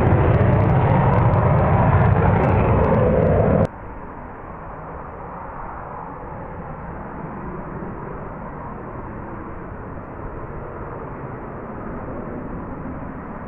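F-35B Lightning's jet engine running loud. About three and a half seconds in it drops suddenly to a quieter, steady jet noise that holds to the end.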